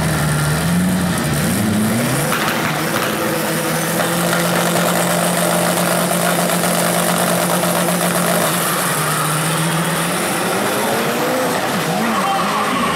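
Engines of two Volkswagen Gol drag cars staged at the line, held at steady high revs. About ten seconds in they launch and accelerate away, the engine pitch sweeping up and down through the gear changes.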